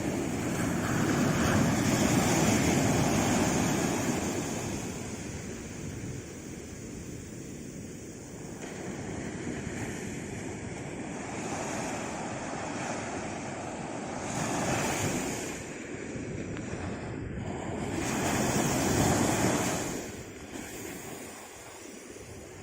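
Sea waves breaking and washing on a shore, the surf swelling and easing in several surges, the biggest early on, another around two-thirds through and one near the end, with some wind on the microphone.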